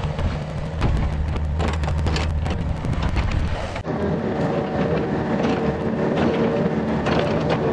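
Yanmar ViO50 mini excavator's diesel engine running steadily under load, with repeated sharp cracks and clanks over it. The engine note changes abruptly a little under four seconds in.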